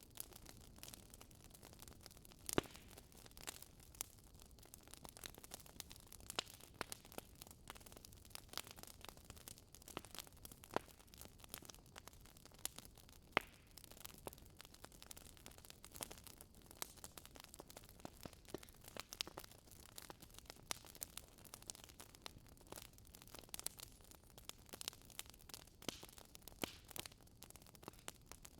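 Wood fire crackling: irregular snaps and pops over a low hiss, with a sharper pop about two and a half seconds in and another near the middle.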